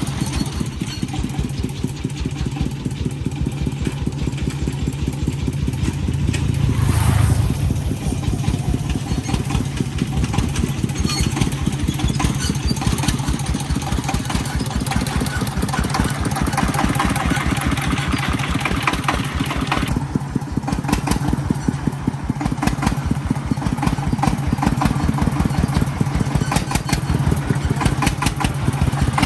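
Engine of an agricultural farm vehicle running with a rapid, even beat, briefly louder about seven seconds in.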